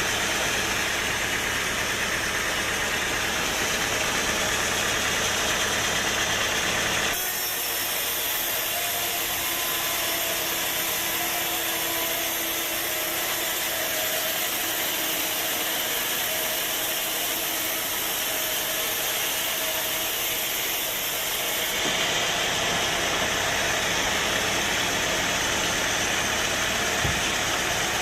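Sawmill machinery running steadily with a low engine hum. About seven seconds in the sound switches abruptly to a thinner, hissier one with the low hum gone, then switches back about fifteen seconds later.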